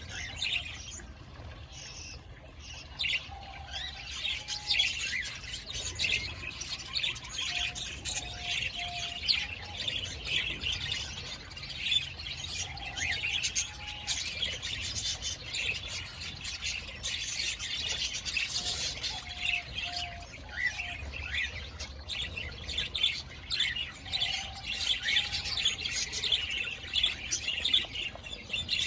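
A flock of parakeets and cockatiels chirping and chattering continuously in an aviary. Short, lower two- or three-note calls recur every few seconds.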